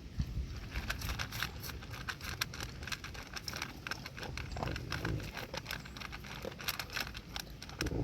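A dog crunching and chewing her food, with a quick, irregular run of sharp crunches.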